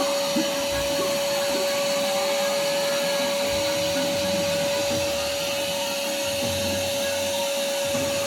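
Vacuum cleaner running steadily with a constant whine over its rushing air, used to clean a car seat.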